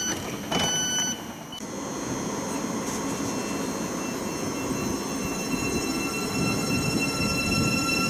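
A train running into the station, growing louder, with steady high-pitched whines over the rumble of its wheels on the rails. A short high electronic beep sounds about half a second in.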